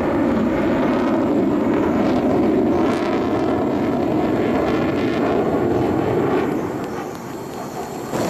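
Jet noise from a Mitsubishi F-2 fighter's single F110 turbofan engine, loud and steady, easing off about seven seconds in.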